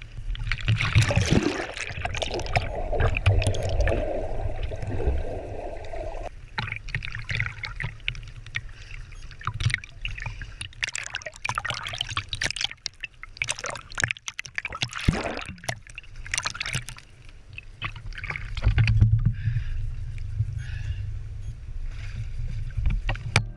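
Water sloshing, gurgling and splashing close to the microphone in irregular surges, over a steady low rumble.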